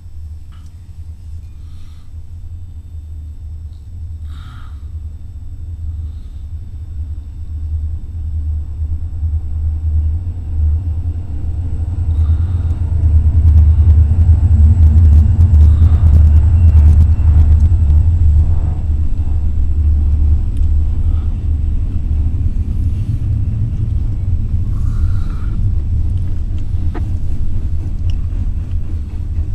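Diesel locomotives of a freight train rumbling, growing louder as the train approaches, loudest about halfway through, then slowly easing as it rolls on past.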